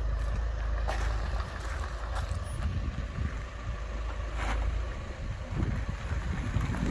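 Low, steady rumble from a Range Rover Evoque, with a few faint clicks.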